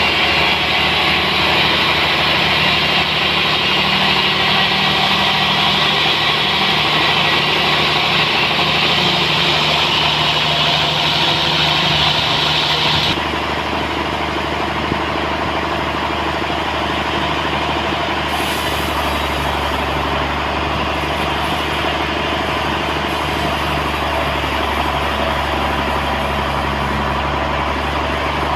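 Sawmill machinery running steadily with a loud engine-like drone. A bright, high-pitched part of the noise cuts off suddenly about halfway through, leaving the lower running sound.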